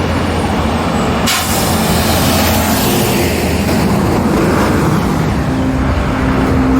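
Heavy lorries passing on the road, with engine and tyre noise throughout and a sudden sharp hiss about a second in.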